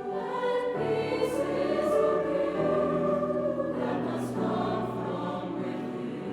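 Mixed choir singing a sustained passage, with chords held and changing pitch every second or so.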